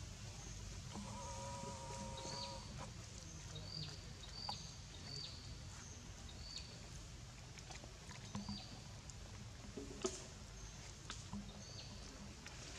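Faint outdoor ambience: a bird repeats short high chirps about once a second over a low steady rumble, with a longer held call about a second in.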